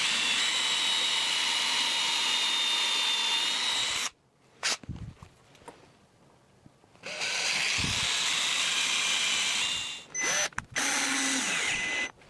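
Power drill running in three bursts, drilling holes for the slider plates along a marked line: a run of about four seconds, a second run after a pause of about three seconds, and a short third run near the end.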